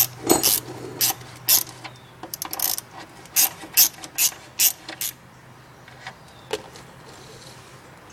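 Ratchet wrench clicking on its back-strokes while loosening the drain plug nut on an engine oil pan. The loud, sharp clicks come in irregular runs of about two a second and mostly stop about five seconds in, with one more near the end.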